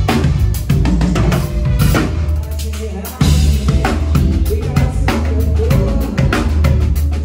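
Live band playing a groove, with the drum kit (kick, snare and rimshots) and a deep bass line out front. Near the middle the low end drops away for a moment, then the full band comes back in hard.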